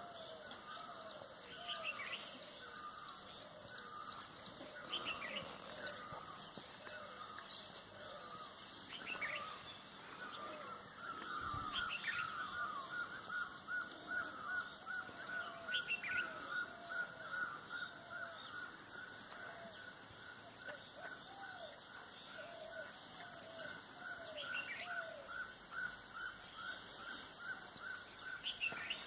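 Several wild birds calling and chirping in a mixed chorus of short notes, with a fast run of repeated call notes from about halfway through.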